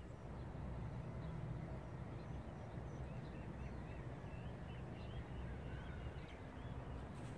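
Birds chirping in many short, repeated calls over a low, steady rumble.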